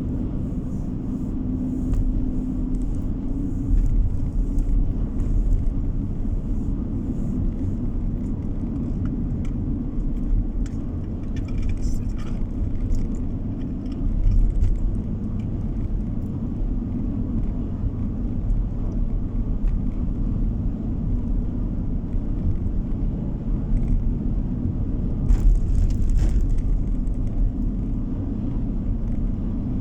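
Car driving along a road: a steady low rumble of engine and tyre noise with a faint hum, and a few short knocks about halfway through and near the end.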